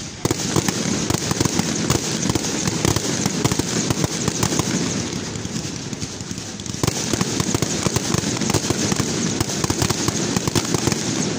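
Fireworks display: a dense, rapid barrage of bangs and crackling from aerial shells bursting. It eases briefly a little past halfway, then picks up again.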